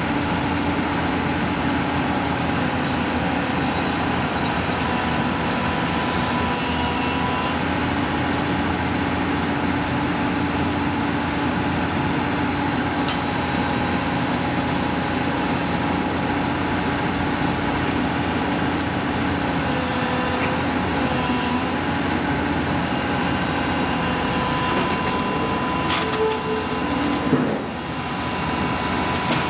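Excavator diesel engine running steadily, with a sharp knock and a brief drop in level near the end.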